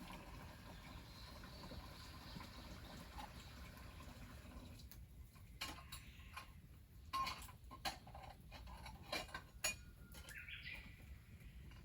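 A few sharp light clinks and knocks over a steady low rumble, with a short rising bird call near the end.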